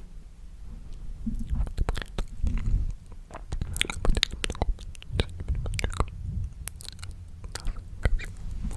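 Close-miked ASMR mouth sounds: quick wet clicks and smacks in irregular clusters, over a low rumble.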